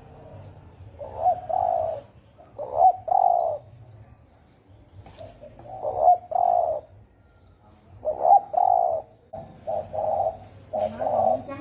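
Spotted doves cooing in the deep, hoarse 'thổ ồm' style. Low two-part coo phrases come about every two and a half seconds, then from about nine seconds in a quicker run of short coos follows.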